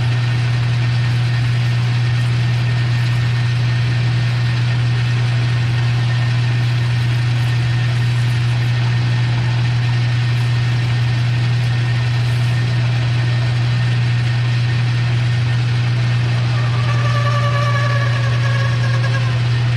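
Metal lathe running with a steady low hum while cutting a hinge pin. A faint whine from the cut comes in near the end.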